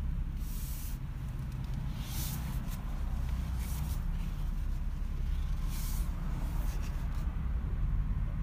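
Vehicle engine running, heard from inside the cab as a steady low rumble, with about five short hissing bursts over the top.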